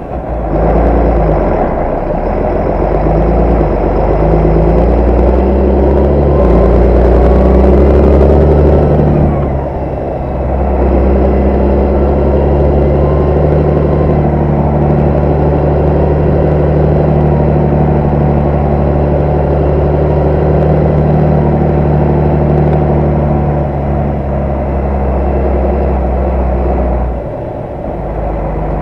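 Large farm tractor's diesel engine running steadily under load, its pitch shifting a few times, with a brief dip in level about ten seconds in and again near the end.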